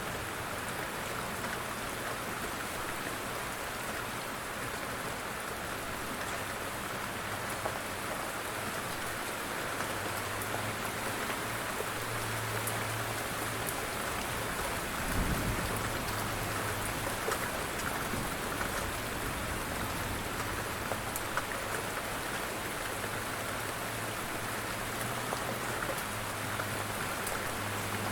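Steady light rain falling on a surface, an even hiss dotted with the ticks of single drops. A brief low rumble comes about halfway through.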